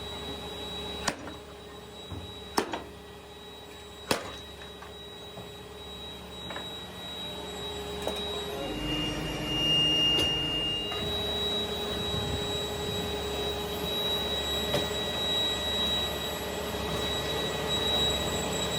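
Factory machinery running with a steady hum and whine, broken by a few sharp clicks in the first few seconds. About nine seconds in, a higher steady tone joins for about two seconds.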